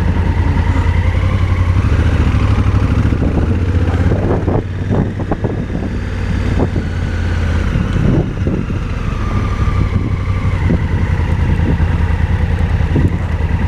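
Motorcycle engine running steadily under way on a muddy dirt road, with a cluster of knocks and clatter about four to eight seconds in.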